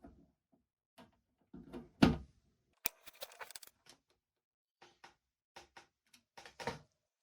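Scattered clicks, knocks and short scraping rustles of hands working a Knight 600 tube tester, setting its controls and seating a tube in its socket; the loudest knock comes about two seconds in.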